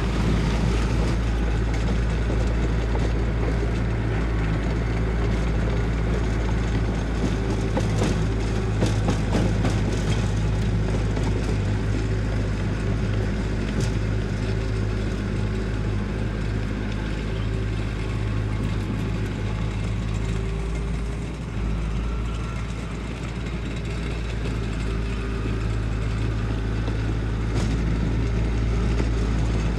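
Diesel engine of heavy construction equipment running steadily at an even low pitch, with a few short knocks about a third of the way in and again near the end.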